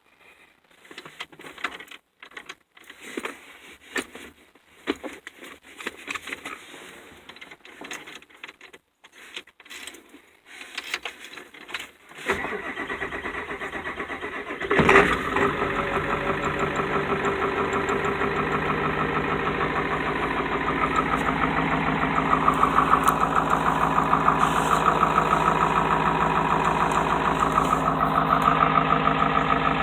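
Diesel engine of a 1994 Ford F450 tow truck being started: after scattered clicks and knocks, the starter cranks for a couple of seconds, the engine catches about fifteen seconds in and settles into a steady idle, a little louder in the later part.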